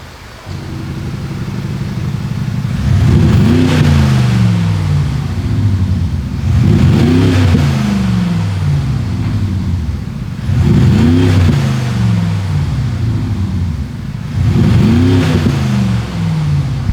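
Engine sound from THOR electronic exhaust speakers on a Mercedes CLA 200 diesel, rising and falling with four throttle revs about four seconds apart. The speakers add a sporty exhaust note that the diesel does not have on its own.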